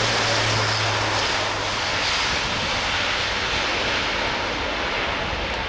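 Airbus A400M's four turboprop engines running at high power during its takeoff: a loud, steady roar that cuts in suddenly, with a low hum under it for the first second.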